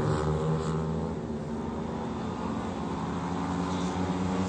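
A motorcycle engine running at a steady speed, its pitch holding nearly level.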